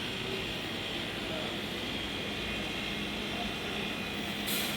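Steady vehicle noise: a constant rumble and hiss with a faint low hum.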